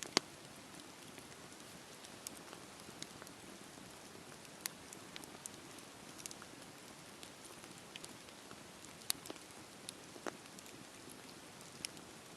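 Campfire burning with a steady soft hiss and irregular sharp crackles and pops of burning wood, a loud pop just after the start.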